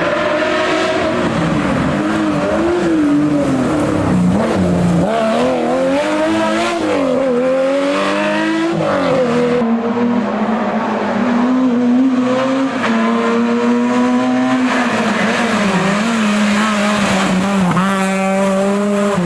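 Historic rally car's engine under hard driving, its revs climbing and dropping again and again through gear changes, loud throughout.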